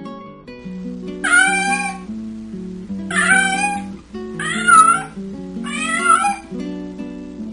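A domestic cat meowing four times, each meow a little under a second long, over background acoustic guitar music.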